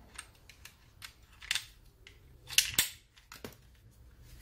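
Scattered sharp clicks and small taps of hand tools on the plastic and metal parts of a Bosch GWS 20-230 angle grinder being taken apart. The loudest click comes about two and a half seconds in.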